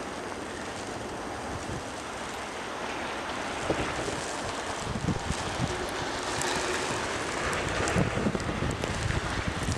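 Blizzard wind rushing steadily, growing stronger about halfway through as gusts buffet the microphone with low rumbles.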